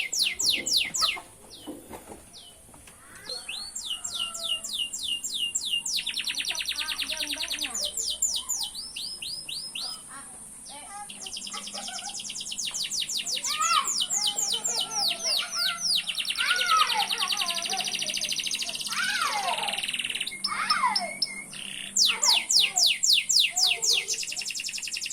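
Domestic canary singing a long, varied song: runs of rapid trills made of evenly repeated high sweeping notes, changing from one trill to the next every few seconds, with a brief lull about two seconds in.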